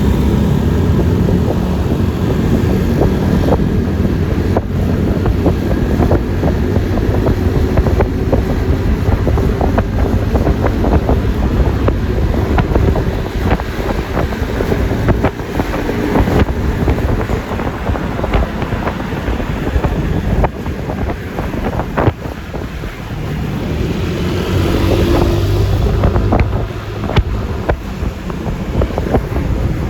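Wind buffeting the microphone and road noise from a moving Yamaha Lexi LX 155 S scooter, a steady low rush that dips briefly a few times.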